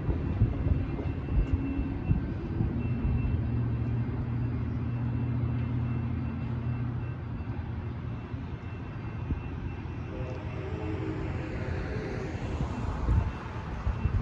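Steady low engine hum and rumble that eases off about halfway through. Near the end a broad rushing sound swells and fades as something passes, with a couple of thumps.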